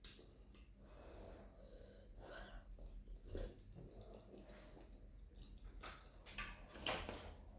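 Faint mouth sounds of a person eating pounded yam and egusi soup: soft chewing and wet lip smacks with breathing, and a couple of sharper smacks about three seconds in and near the end.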